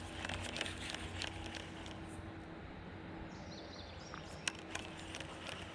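Outdoor ambience with scattered small clicks and ticks, and a short faint bird chirp about three seconds in.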